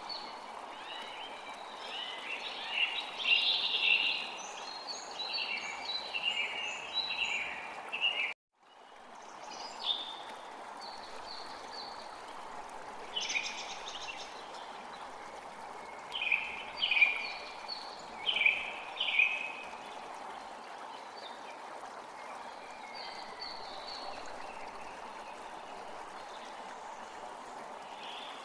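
Songbirds calling and chirping in short repeated phrases over the steady rush of a stream. The whole sound cuts out for a split second about eight seconds in, then resumes.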